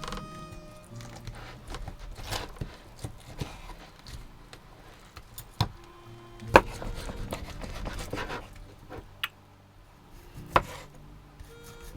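Knife and fork clinking and scraping on a plate, with scattered sharp clinks, the loudest about six and a half seconds in, over soft background music with long held notes.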